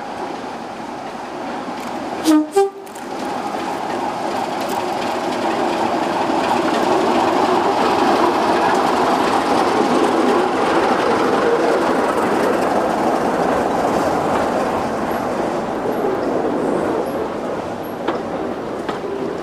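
A diesel train gives two short horn blasts, then passes. Its running noise builds to a peak and slowly eases, with wheels clicking over the rail joints.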